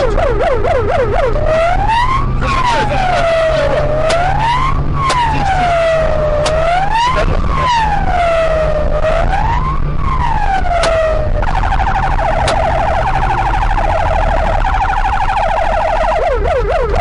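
Police car siren cycling through its modes: a rapid yelp, then a slow rising-and-falling wail about four times, then a steadier tone, and back to the rapid yelp near the end. A vehicle engine drones underneath.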